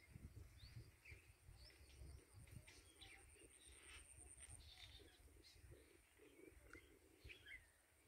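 Faint birds chirping in short, scattered calls, over a low rumble.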